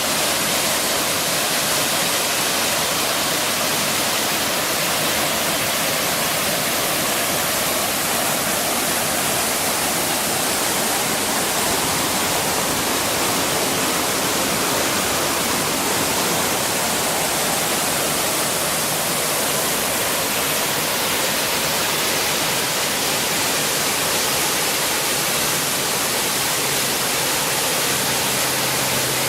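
Weeks Falls waterfall: water pouring and crashing in a steady, full rushing hiss that does not change.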